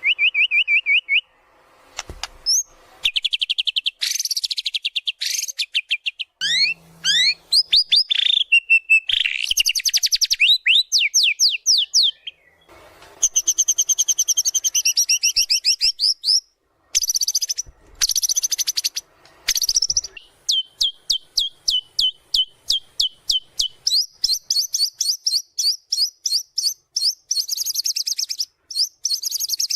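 White-rumped shama singing loudly and continuously: a varied song of whistled phrases, fast trills and sweeping notes that change every few seconds, with long runs of rapidly repeated notes in the second half.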